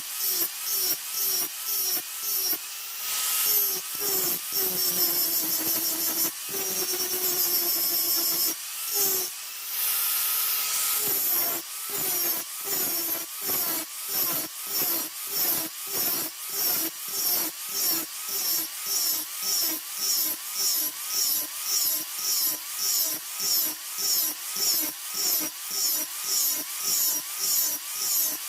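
A hand tool is being stroked back and forth across the blade stock at about two strokes a second, each stroke giving a scraping, bending tone. Twice, about three seconds in and again near ten seconds, the strokes give way to a longer, steadier pass.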